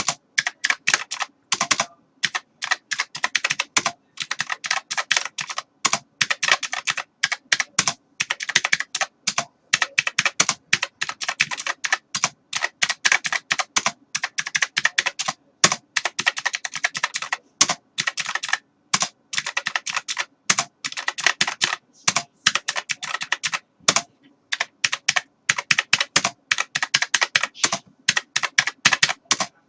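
Computer keyboard being typed on continuously: fast, uneven runs of key clicks with brief pauses between bursts.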